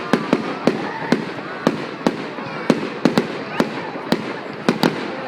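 Fireworks going off: an irregular string of sharp bangs, about two or three a second, over a background of voices.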